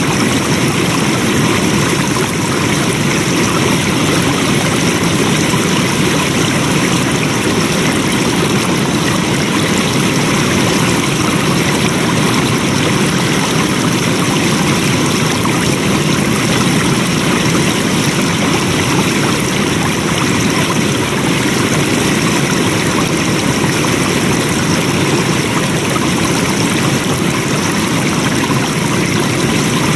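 Flowing water running steadily, a constant rushing wash like a stream over rocks, with no changes.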